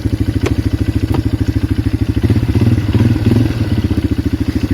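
Polaris Magnum 425 ATV's single-cylinder four-stroke engine running on the trail with a fast, even beat of firing pulses. For about a second midway it grows louder and fuller, as under more throttle.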